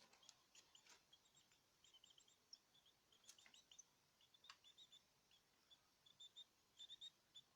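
Small caged songbirds chirping: many short high chirps repeating irregularly, with a few faint sharp clicks among them.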